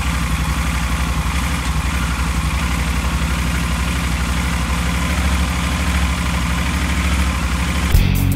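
Yamaha Super Ténéré motorcycle engine idling steadily, with an even low throb.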